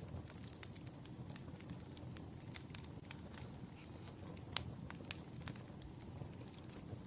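Wood fire crackling: a steady low rumble of burning logs with scattered sharp pops and snaps, the loudest about four and a half seconds in.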